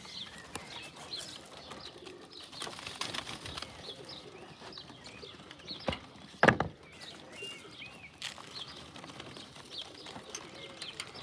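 Young homing pigeons at the loft: wings flapping, cooing and small cheeps, with scattered clicks. Two knocks come a little past the middle; the second is the loudest sound.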